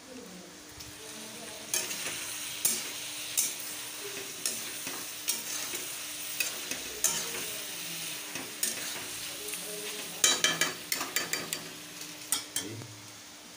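Chicken pieces sizzling in oil in a steel wok, stirred with a metal spatula that scrapes and knocks against the pan about once a second, with a quick run of strokes about ten seconds in.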